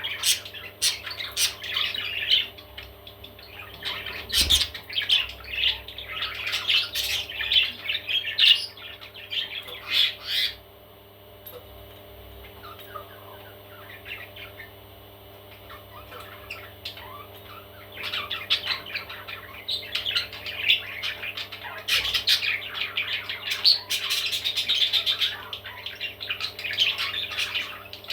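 Baby parrots squawking in a rapid, dense chatter of calls, which drops to a lull for several seconds in the middle and then starts up again.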